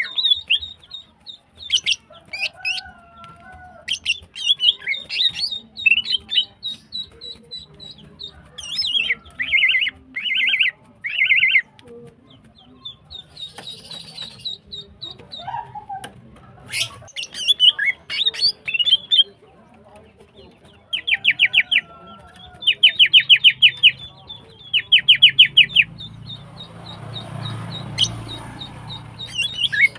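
Female greater green leafbird (cucak ijo) calling hard in breeding condition, calling to males: a fast run of sharp chirps broken by short bursts of rapid buzzing trills, several in a row in the middle and again toward the end. A rustling noise comes in near the end.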